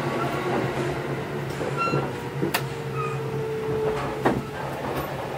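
Kintetsu 8810 series commuter train standing at a station with a steady low hum from the car. Over it come a few sharp clunks, the loudest about four seconds in, as the sliding doors work.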